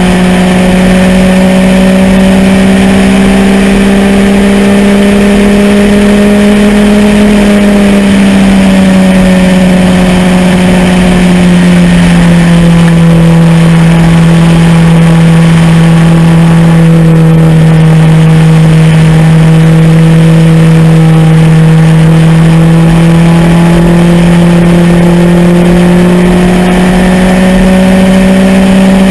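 MEV Rocket's engine running hard at high revs under load. Its pitch eases down a little about a quarter of the way in, holds steady, then climbs again near the end.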